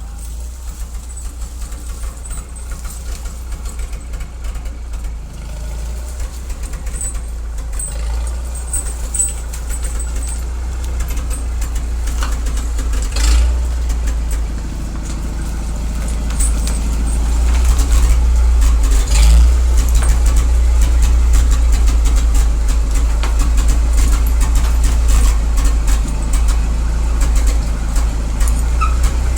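Old farm tractor engine running steadily as the tractor is driven, growing louder about two-thirds of the way through, with a few sharp knocks along the way.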